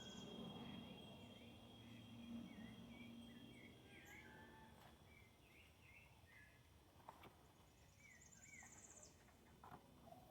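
Faint birdsong: small birds giving short repeated chirps, with a higher, faster trill about three quarters of the way through, over a steady thin high tone.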